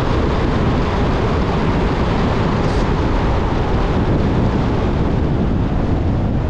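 Steady loud rumble and hiss of a vehicle driving, with road and wind noise.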